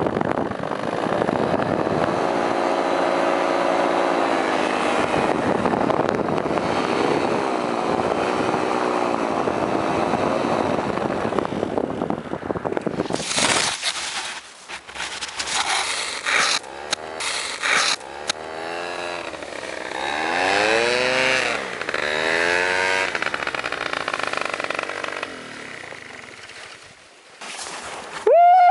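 Paramotor engine running, its pitch swinging up and down as the throttle is worked. From about halfway in, bursts of rushing noise cut across it and the engine is blipped up and down a few times, then it eases back to a low idle near the end as the paramotor comes in to land.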